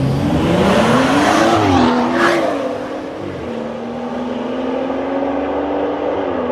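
Two BMW turbocharged straight-six cars, an M240i and a 340i, launching in a drag race: engine revs climb hard with quick upshifts in the first two seconds, then settle into a steady engine note as the cars pull away.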